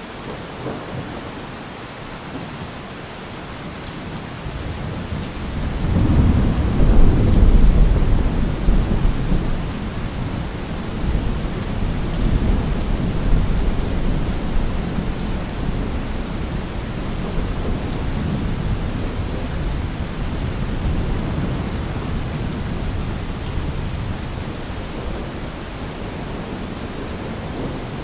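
Steady heavy rain with a long roll of thunder that builds about four seconds in, is loudest a few seconds later and keeps rumbling more quietly to the end.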